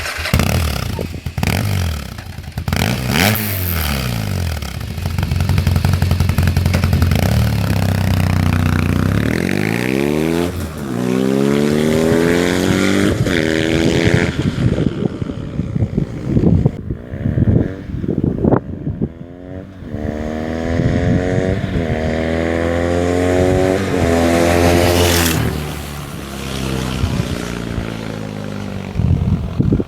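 Yamaha XTZ750 Super Ténéré parallel-twin engine running through a Dominator aftermarket exhaust, revving up several times with the pitch climbing and then falling back between pulls.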